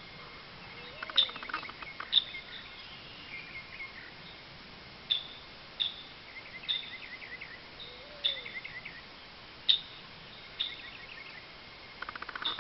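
Songbirds chirping: about ten short, sharp high chirps spaced roughly a second apart, with quick trilled twitters between them and brief buzzy rattles about a second in and near the end.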